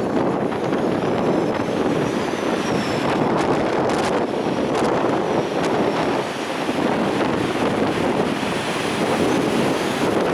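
Gale-force storm wind blasting across the microphone in a steady loud rush, with the surf of a stormy sea beneath it.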